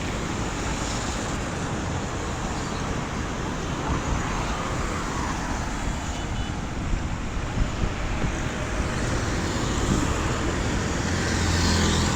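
Road traffic in the rain: a steady hiss of vehicles and tyres on a wet road. A vehicle engine's low hum grows louder near the end.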